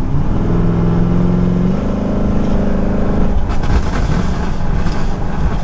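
Camaro SS's LT1 V8 with long-tube headers pulling hard under part throttle, its note climbing and jumping up about two seconds in. About three and a half seconds in it lifts off into a rougher overrun with some crackles in the exhaust.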